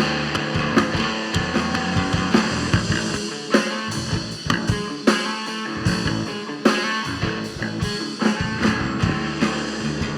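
Rock band playing a song's instrumental intro live: guitar over drums and bass, with regular drum hits.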